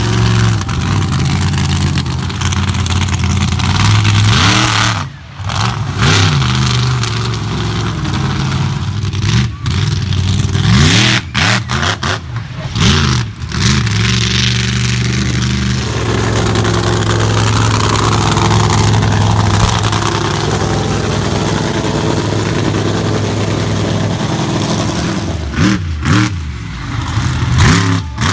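Monster truck's big V8 engine revving hard in repeated throttle bursts, the pitch rising and falling with brief cut-offs, then held at high revs for several seconds in the middle before dipping again near the end.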